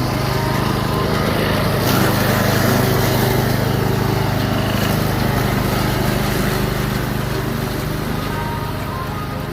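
Lawn mower engine running steadily, a little louder from about two seconds in and easing off slightly near the end.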